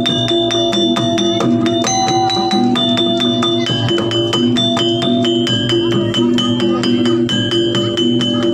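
Gamelan accompaniment for a jaranan dance: bronze metallophones and gongs struck in a fast, busy, even pattern of ringing notes, with drum strokes underneath.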